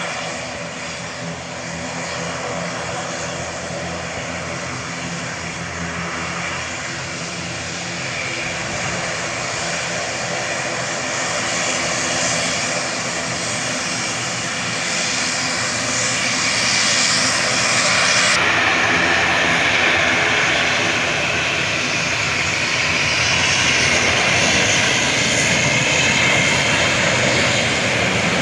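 ATR 72-600's twin turboprop engines and propellers running steadily as the aircraft approaches, a droning hum with a rushing hiss, getting louder. About eighteen seconds in the sound changes abruptly: the steady hum gives way to a brighter rushing noise.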